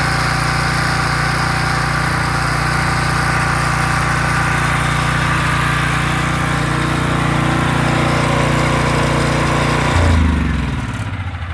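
Portable generator's small gasoline engine running steadily, started again after its carburetor's leaking float needle was replaced. About ten seconds in it is shut off and winds down, its pitch falling.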